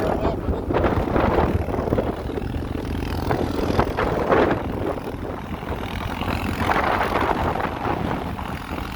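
ATV engine running under way on a deep-snow trail, with wind on the microphone.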